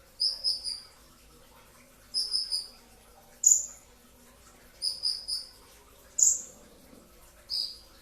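Kolibri ninja sunbird calling: short, shrill, high-pitched notes, some in quick runs of three and some as single sharp downward-sweeping notes, repeating about every second and a half.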